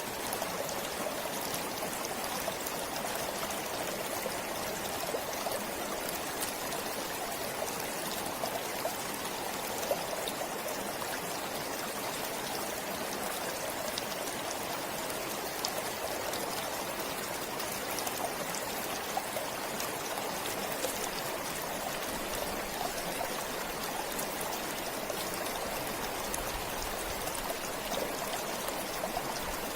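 A stream flowing steadily, with small splashes and drips throughout.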